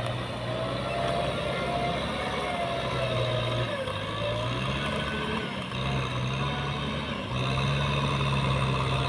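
Heavy diesel engine running under work. Its speed steps up about halfway through and again near the end, getting louder, with a thin wavering whine above it.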